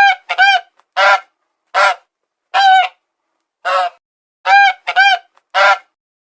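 Waterfowl calling loudly: about nine short, clear calls in an uneven series, some in quick pairs, with brief silences between.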